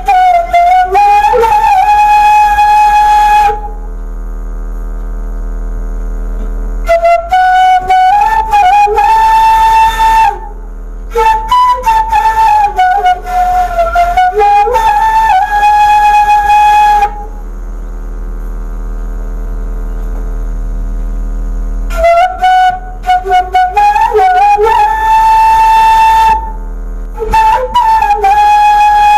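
Indonesian bamboo suling flute played by a beginner: slow melodic phrases with wavering, sliding notes. Twice the playing stops for several seconds, leaving only a low steady hum.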